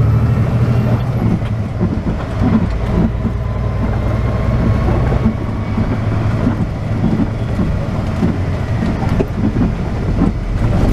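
Semi truck's diesel engine running with a steady low drone while driving, heard from inside the cab, with irregular knocks and rattles over it.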